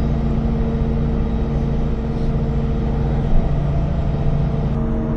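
An engine running steadily with a constant low hum. Near the end its note changes slightly.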